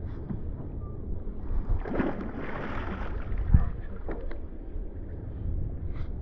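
Wind buffeting the microphone, a steady low rumble. A burst of rushing noise comes about two seconds in, and a sharp thump about three and a half seconds in is the loudest sound.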